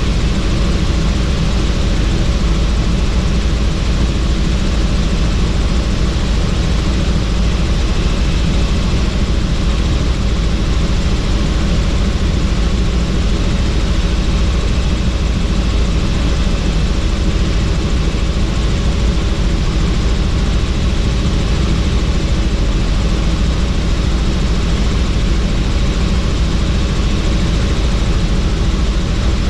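Helicopter in flight, heard from on board: steady, unbroken rotor and engine noise with a deep rumble.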